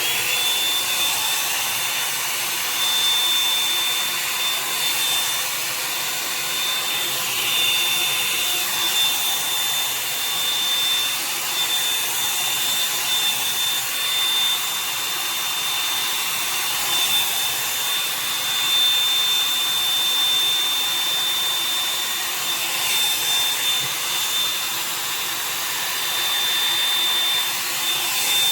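Revlon One-Step hair dryer brush switching on and running steadily, a rush of hot air with a high motor whine that rises as it spins up and then holds level, the sound wavering slightly as the brush is drawn through hair.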